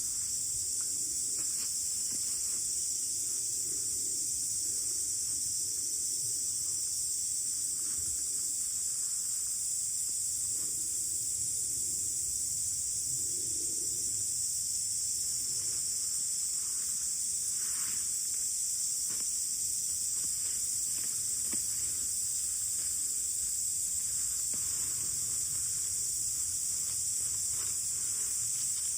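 Steady high-pitched chorus of insects outdoors, unbroken throughout, with faint scattered clicks and taps beneath it.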